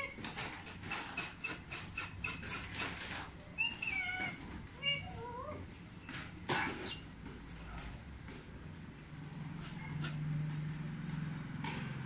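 Bird chirping: a quick run of short, high-pitched chirps about four a second, a few gliding whistles, then a second run of chirps about three a second.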